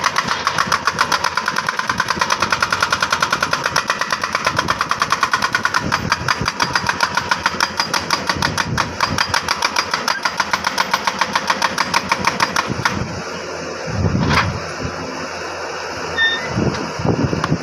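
Jackhammer hammering hard rock in a fast, even stream of blows. It stops about thirteen seconds in, leaving a few low thuds and a sharp click.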